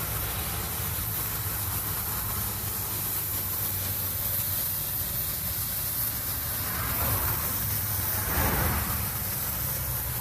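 Freightliner semi truck's diesel engine running steadily, heard from inside the cab, under a constant hiss. The hiss swells briefly twice in the second half.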